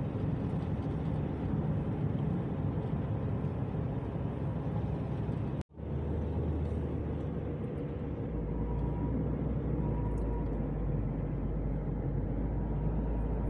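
Car driving along a road: steady engine and tyre noise with a low rumble. The sound cuts out for an instant about six seconds in.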